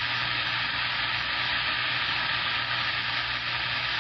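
CB radio speaker putting out steady static hiss with a low hum underneath: the squelch is open on a keyed-up channel between transmissions.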